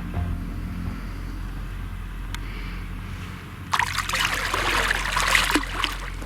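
Water splashing and trickling as a hooked carp thrashes at the surface close in, a loud spell of splashing starting a little before the middle and lasting about two seconds.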